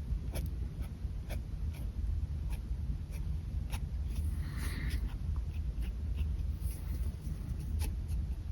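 Pen nib scratching across paper in short, quick sketching strokes, with one longer stroke about halfway through.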